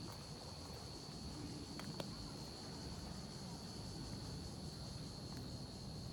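Insects trilling steadily in one unbroken high-pitched tone, over a low steady rumble, with a sharp click about two seconds in.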